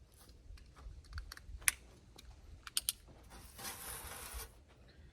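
Scattered light clicks and taps from hand work on the camper's insulation, a few sharper ones among them. A short hiss comes about three and a half seconds in and lasts about a second.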